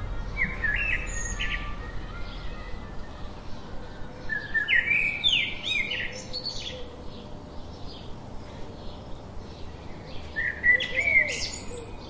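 Birds chirping and singing in short bursts of quick, high, gliding notes: once about half a second in, again a little past four seconds, and once more near the end.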